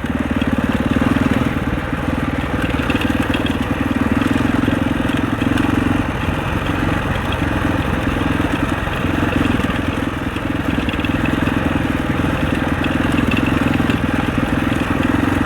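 Husaberg 650 single-cylinder four-stroke enduro dirt bike engine running under way, the throttle held and eased by turns, with the note dipping briefly about six and ten seconds in.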